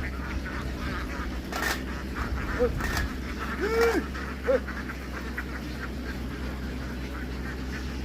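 A large flock of ducks quacking, many calls overlapping, with three louder single calls near the middle, the longest about four seconds in. A couple of sharp knocks and a steady low hum sit underneath.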